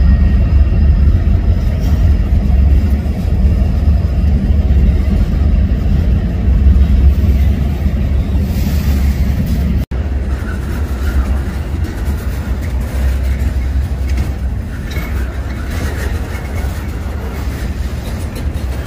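Freight train rolling by with a loud, steady low rumble. The sound cuts out for an instant about ten seconds in, then continues slightly quieter.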